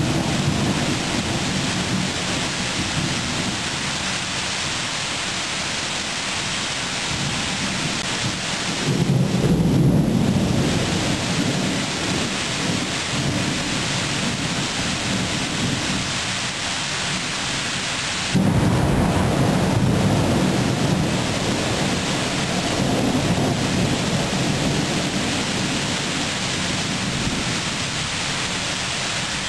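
Thunderstorm: steady rain, with two peals of thunder. One rumble swells about nine seconds in, and a second starts suddenly with a clap at about eighteen seconds and rolls away over several seconds.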